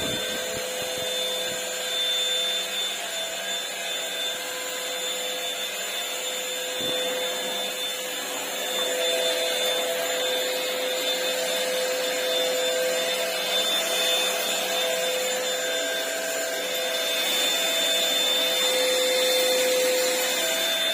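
KENT Zoom 130-watt cordless cyclonic vacuum cleaner running steadily: an even motor whine over a rush of suction air.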